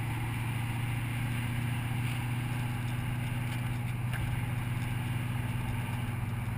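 Mustang's V8 engine and exhaust droning steadily at an even cruising speed, heard from inside the car, with no revving.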